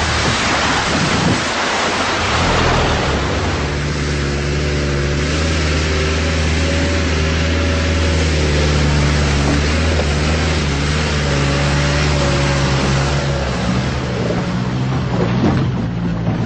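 A vehicle driving along an unsealed dirt road: a steady engine drone under loud, even tyre and road noise.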